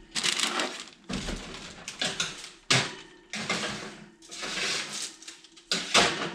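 Kitchen handling noises: a series of knocks and clatters with rustling in between.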